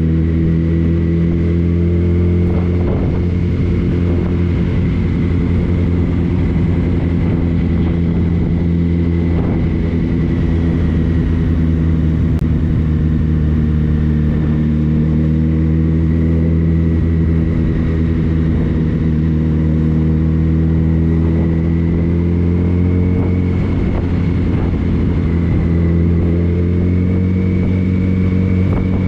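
Motorcycle engine running at a steady speed, its pitch drifting slightly up and down, with a thin high whine over it.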